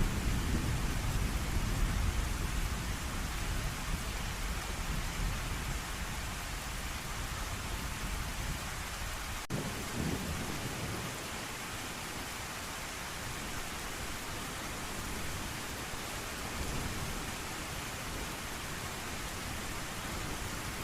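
Steady heavy rain with a low rumble of thunder that dies away over the first several seconds. A weaker rumble follows about halfway, just after a split-second dropout in the audio.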